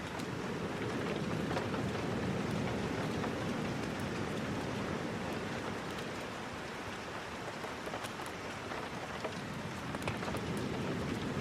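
Steady rain, with scattered small sharp ticks over a low, even rush.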